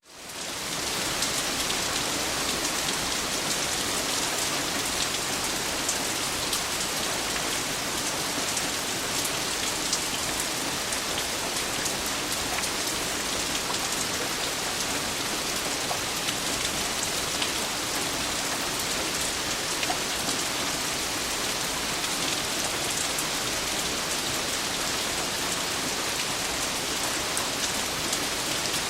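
Steady rain falling, a dense even hiss with many small drop ticks on a surface, fading in over the first second.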